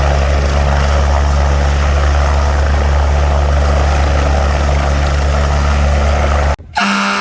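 Helicopter running close by with a loud, steady drone, cutting off abruptly about six and a half seconds in. A loud horn blast with a steady pitch starts right after.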